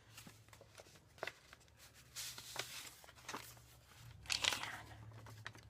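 Paper rustling and crinkling, with small taps and clicks, as the pages of a handmade journal are handled. The loudest rustle comes about four seconds in.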